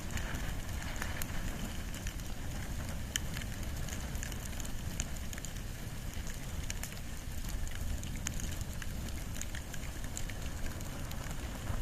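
Wood and bamboo fire burning: a steady low rush of flames with scattered sharp crackles and pops throughout.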